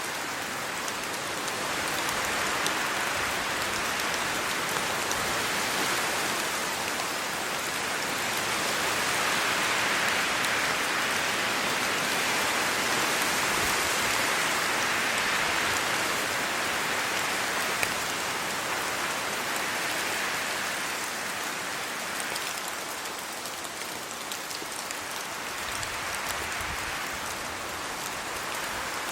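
Rain falling steadily on tree leaves and a road, with wind through the trees. The sound swells and eases in slow waves.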